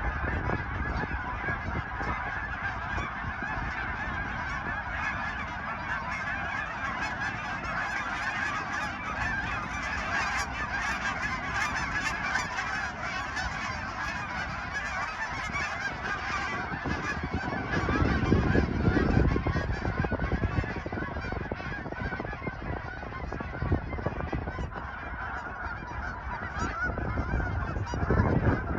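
A large flock of migrating geese honking continuously in a dense, overlapping chorus. A low rumble swells briefly about two-thirds of the way in.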